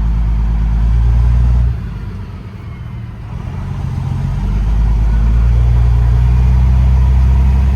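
Detroit Series 60 diesel of a Peterbilt 389 glider running under load. Its sound drops away sharply a little under two seconds in, then builds back up over the next couple of seconds to a steady pull.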